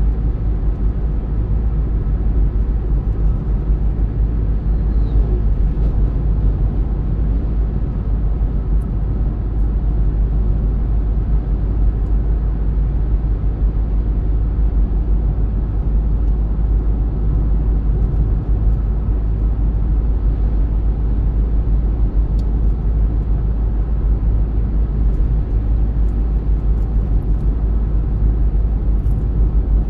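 A car being driven at a steady pace: a constant, deep road rumble without change.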